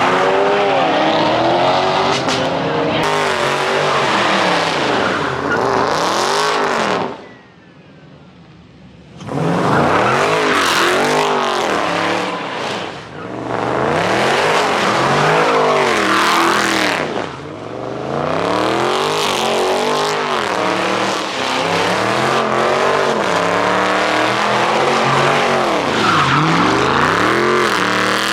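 Car engines revving hard over and over, the pitch climbing and falling every second or two over a loud rushing noise. It drops away suddenly about seven seconds in and comes back about two seconds later.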